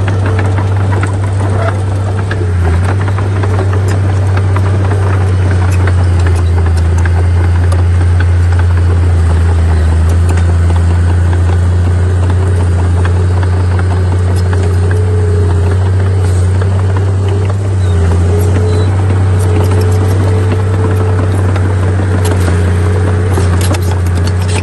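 Heavy diesel engine of a bulldozer running steadily under load, a deep, even drone with scattered light clanks and rattles, more of them near the end.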